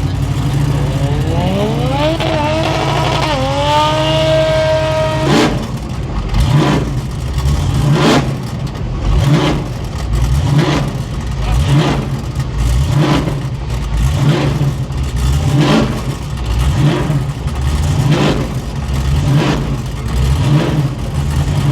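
Holden HG wagon burnout car's engine revving: its note rises over a few seconds and holds, then it drops into repeated short surges about once a second over a steady low rumble.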